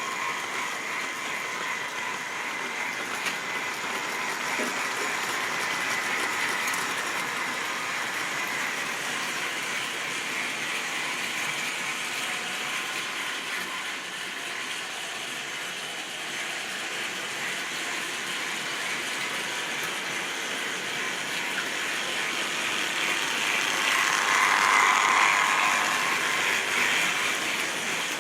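Model railway train running on the track: the locomotive's small motor and gears whir steadily with a fine rattle of wheels on the rails. It swells louder near the end.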